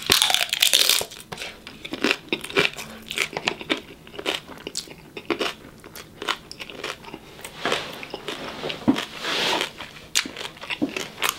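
Biting into a taco, loudest in the first second, then chewing close to the microphone with many small wet mouth clicks.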